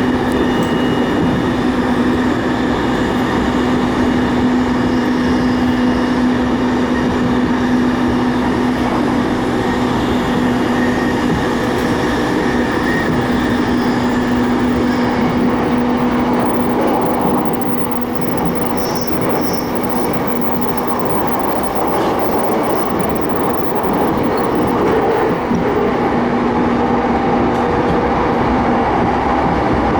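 Electric commuter train running on the rails, heard from inside the car: a steady rumble of wheels and track noise with a held humming tone that drops out about twenty seconds in.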